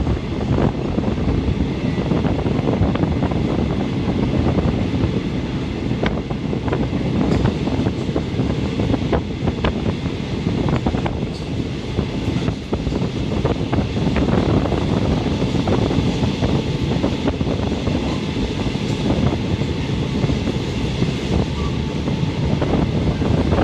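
Train running on the State Railway of Thailand's Suphan Buri line, heard from inside the passenger car: a steady, loud rumble of wheels and running gear, with scattered clicks and knocks from the track.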